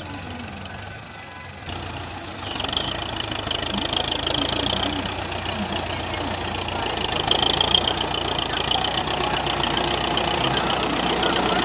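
Belarus 510 tractor's diesel engine running, getting louder about two seconds in and staying loud, with a knocking engine note.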